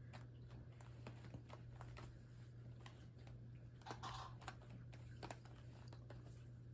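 Wooden toy train track pieces being handled and fitted together: faint, irregular light clicks and knocks of wood on wood, over a steady low hum.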